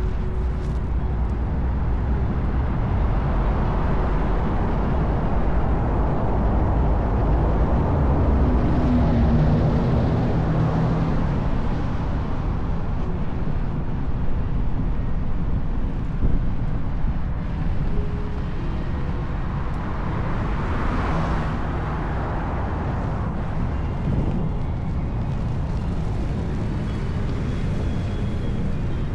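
Steady wind rumble on the microphone with street traffic, as heard while riding an electric unicycle; vehicles pass, swelling about a third of the way in and again about two-thirds through.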